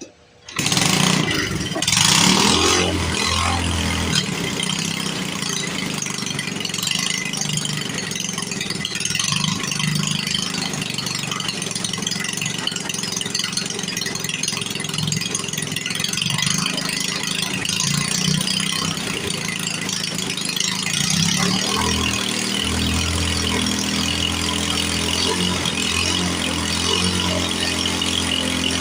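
1952 Briggs & Stratton Model 6 single-cylinder engine starting about half a second in and then running steadily, its note settling about 21 seconds in.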